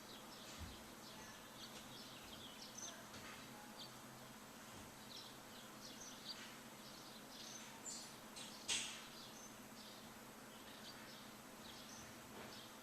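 Small birds chirping, many short high calls scattered throughout over a faint steady background hiss, with one louder chirp about nine seconds in.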